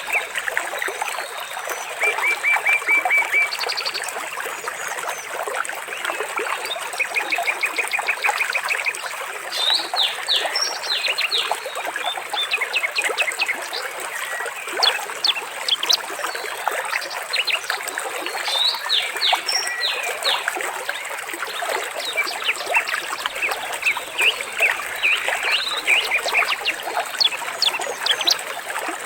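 Water trickling and splashing steadily, with birds singing over it: many quick chirps and several rapid, even trills.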